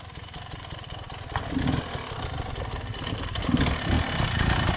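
Off-road motorcycle engine running at low revs, getting steadily louder.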